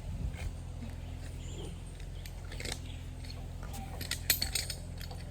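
Scattered metallic clicks and clinks of zip-line gear, such as carabiners and trolley hardware, with a quick cluster about four seconds in, over a steady low hum.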